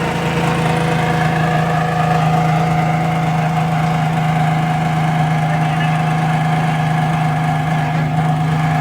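Ferrari Enzo's V12 engine idling steadily, its pitch held level with no revving.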